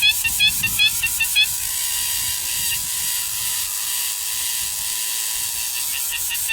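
Rapid high bird chirps, about four or five a second, over a steady hiss; the chirping stops after about a second and a half, leaving the hiss alone.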